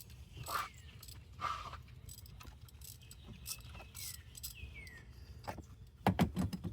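Faint, scattered metallic clinks and taps of a 5/8 spark plug socket and extension being handled as a loosened spark plug is lifted out of the engine, with a quick run of clicks near the end.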